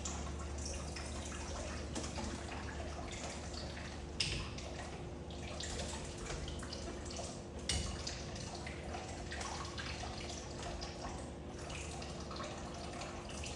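Water running and dripping as a steady hiss, with two brief louder splashes or knocks, one about four seconds in and one about eight seconds in.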